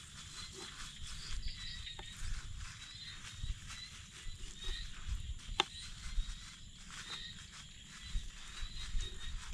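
Outdoor ambience: a steady, high chirping of small creatures with a low rumble beneath it, and a single sharp click about five and a half seconds in.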